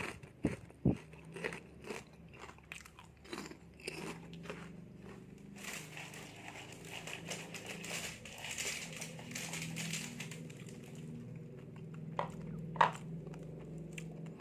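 Someone crunching and chewing dry seblak crackers close to the microphone: sharp crunches come thick in the first few seconds, then give way to softer, steadier chewing, with two sharp clicks near the end.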